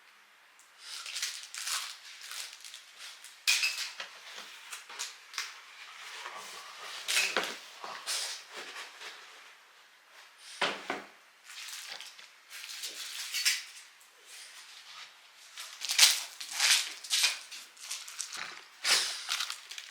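Art supplies being sorted by hand: an irregular run of clicks, clatter and rustling as small items and their packaging are picked up and set down, with a firmer knock about halfway through.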